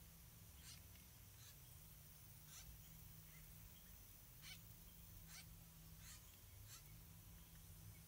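Faint, short high bird chirps, about one a second, over a low steady hum.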